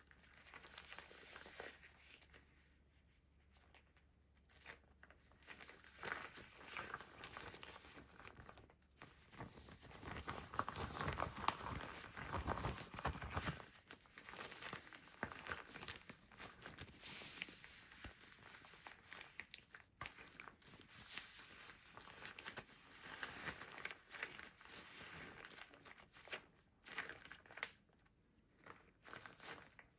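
Irregular crinkling and rustling of something being handled and crumpled, loudest in a stretch about ten to thirteen seconds in.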